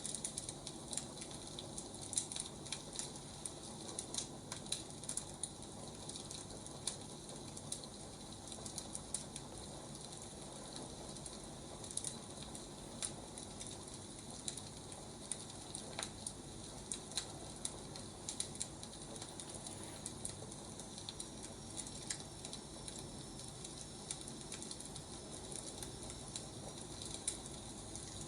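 Firewood burning, with irregular crackles and snaps over a steady soft hiss.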